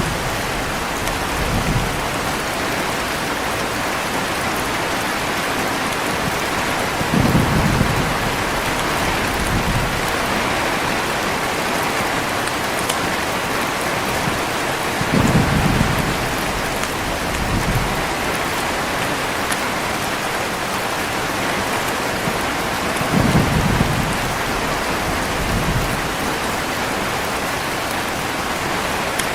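Heavy rain falling in a steady hiss, with short, low rumbles of thunder about every eight seconds, each followed about two seconds later by a weaker rumble.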